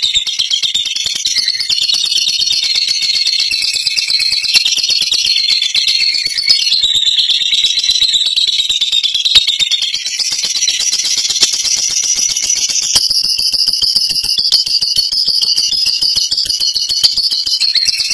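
Lovebird singing a long, unbroken 'ngekek': a very fast, high-pitched rattling chatter that keeps going without a break.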